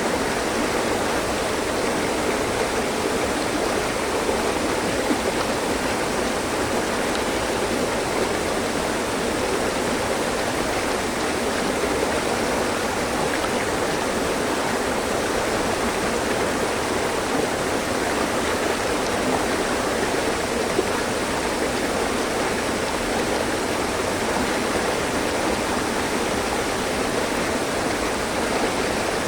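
Mountain stream, water running and splashing over rocks in a steady, unbroken rush.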